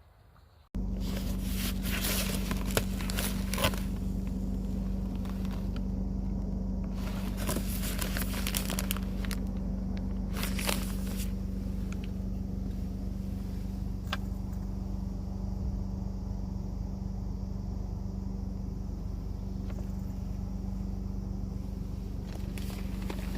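A steady low mechanical hum that switches on abruptly about a second in and holds without change, with bouts of crackling and rustling handling noise over it in the first half.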